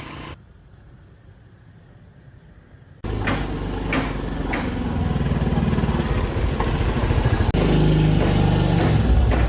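After a quiet stretch with a faint high whine, an engine comes in suddenly and loud about three seconds in and runs steadily, getting slightly louder, with a few clicks over it.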